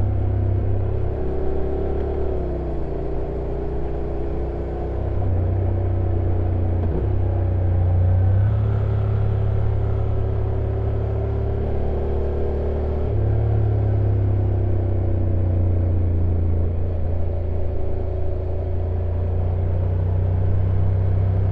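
Honda NC750X DCT's parallel-twin engine running under way downhill, its steady hum stepping up and down in pitch several times as the revs change, over a rush of road and wind noise.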